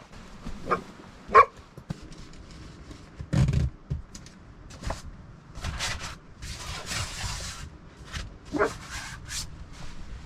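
Belgian Malinois giving a few short, high barks: two close together near the start and one more near the end. A dull thump comes about three and a half seconds in, and a burst of rustling a little past the middle.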